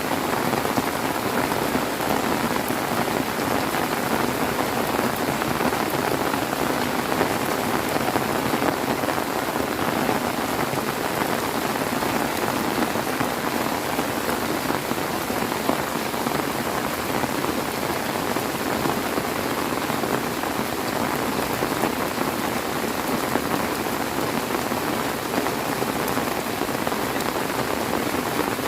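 Heavy rain falling steadily, a dense even patter with no thunder or other distinct sounds.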